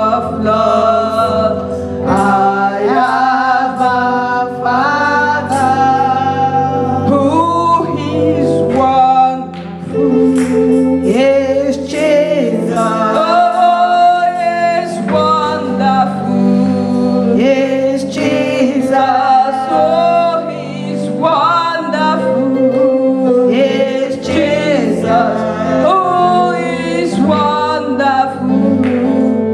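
Gospel choir singing a worship song over musical accompaniment with sustained low notes.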